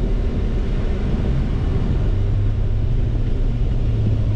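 A truck driving on the road, heard from inside the cab: a steady engine and road drone, with a low hum that grows stronger about two seconds in.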